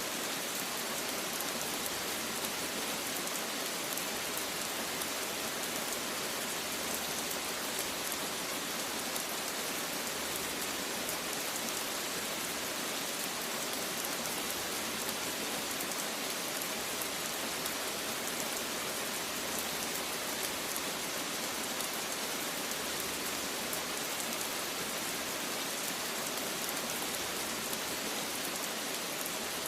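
Steady rain falling, a constant dense hiss with many fine drop patters and no change in intensity.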